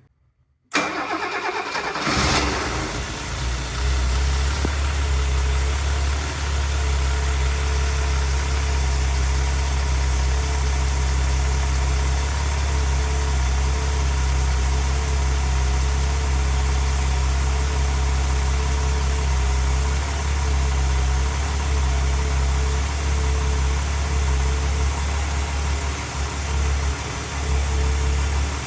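A 1975 Mercedes-Benz 280 SL's straight-six engine is cranked on the starter just under a second in, catches within a couple of seconds, then idles steadily.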